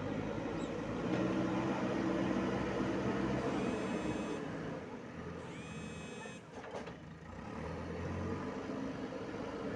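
JCB 3DX backhoe loader's diesel engine running under working load. Its level swells and dips as it works. Two brief high rising whines sound over it, about four and six seconds in.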